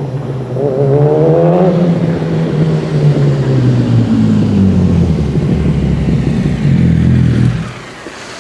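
2007 Yamaha R1's inline-four engine running through a race exhaust. Its pitch rises about a second in, then falls back to a low, steady run. Near the end the sound drops suddenly to a much quieter level.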